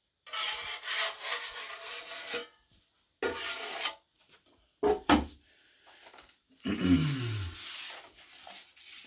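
Drywall knife scraping and spreading joint compound over a drywall patch, in several separate strokes, with a short sound that falls in pitch about seven seconds in.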